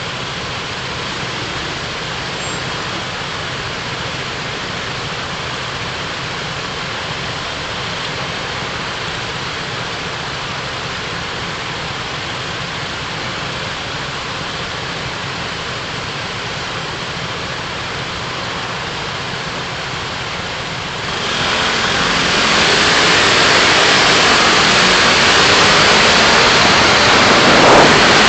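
A car driving: steady road and engine noise, which gets louder and hissier about three-quarters of the way through.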